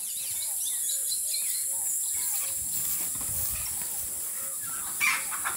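Birds chirping, many short repeated calls, over a steady high hiss, with a louder call about five seconds in.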